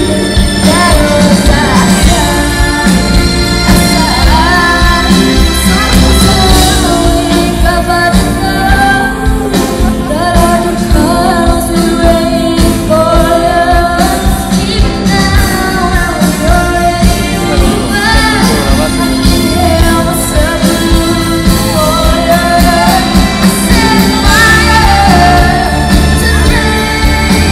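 A live pop band playing loudly, with a lead voice singing a wavering melody over the full band, with the echo of a large hall.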